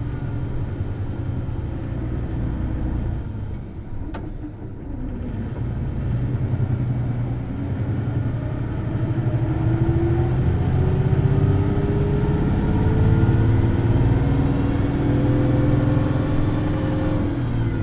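Hino Blue Ribbon City Hybrid bus's diesel engine and hybrid drive running under way. After a brief dip and a click about four seconds in, it pulls harder: the engine note rises in pitch and grows louder, with a faint high whine climbing and then falling away.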